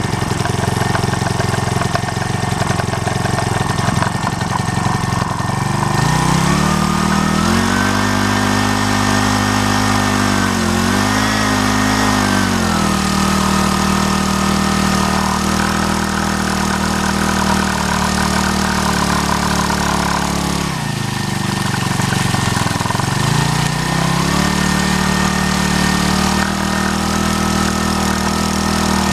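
Koshin SE-25FH engine-driven water pump's small petrol engine running. It runs at a lower speed at first, picks up to a higher speed about six seconds in, dips briefly around eleven seconds, then drops off around twenty-one seconds and climbs back up a couple of seconds later.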